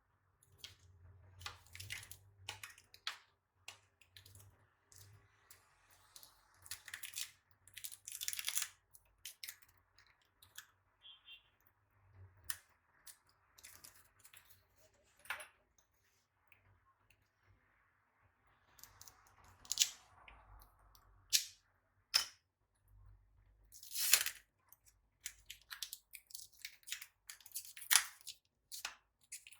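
Packaging being handled during an unboxing: irregular crinkling and rustling with many short clicks and taps.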